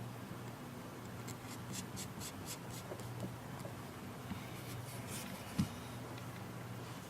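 Light clicking and scratching of small tools and fingers working on a tablet's internal parts, a quick run of small ticks followed by more later, with one soft knock about five and a half seconds in.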